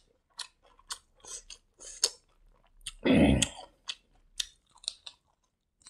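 Close-miked chewing of fried rice eaten by hand: short irregular mouth clicks and crunches, with one louder, longer chewing noise about three seconds in.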